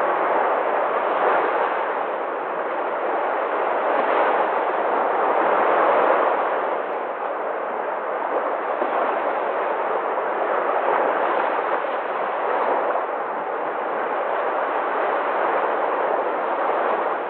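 Sea waves breaking and washing in a continuous rush that swells and eases in loudness every few seconds.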